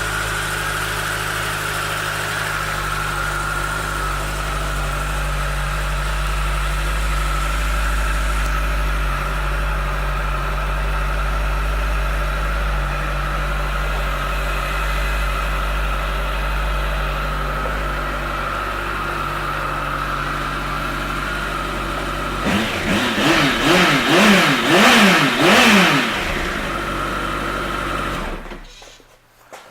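2016 Kawasaki ZX-14R's inline-four engine idling steadily, then revved several times in quick succession about three-quarters of the way in, settling back to idle and switching off just before the end.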